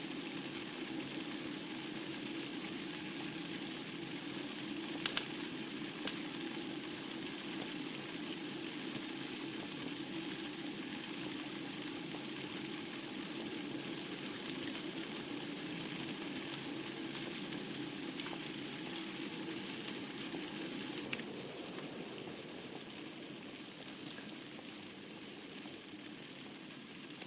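Wood fire crackling in a fireplace: a steady hiss of burning logs with scattered sharp pops, the loudest about five seconds in. It grows a little quieter over the last few seconds.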